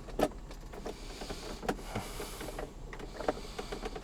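Irregular small clicks and knocks of screws being started by hand into a plastic center console, with a faint hiss between about one and nearly three seconds in.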